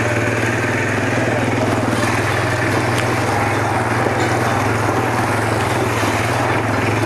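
Quad (ATV) engine running steadily while riding, a constant low drone with even pulsing.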